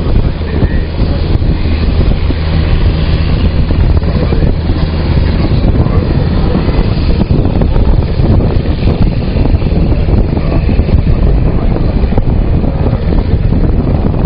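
UH-60J Black Hawk helicopter running on the ground with its rotors turning: loud, steady twin-turboshaft and rotor noise, with rotor wash buffeting the microphone.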